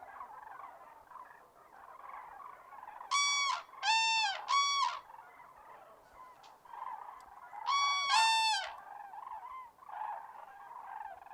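Common cranes calling: three short trumpeting calls about three seconds in, then two overlapping calls about eight seconds in. Under them is a faint, steady chatter of more birds.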